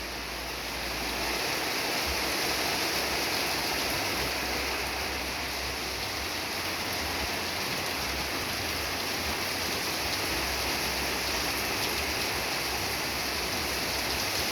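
Heavy rain pouring down steadily, a dense hiss of drops with a few sharper drop ticks; it swells a little about a second in and then holds.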